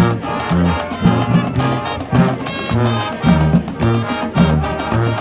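High school marching band playing, brass carrying the tune over a steady, driving bass line.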